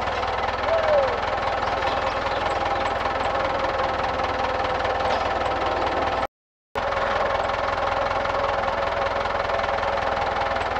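Minneapolis Moline 605 HEB engine running at a steady speed, with a short falling squeak about a second in. The sound cuts out for about half a second a little past the middle.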